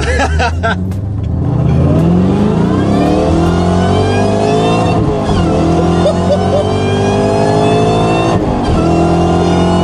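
Supercharged 4.6-litre V8 of a 2003 Mustang Cobra heard from inside the cabin under hard acceleration, revs climbing steeply, with the supercharger whine rising alongside. The pitch drops at upshifts about five seconds in and again near the end, then climbs again.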